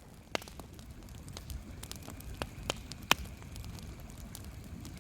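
Campfire crackling, with several sharp pops, the loudest about three seconds in.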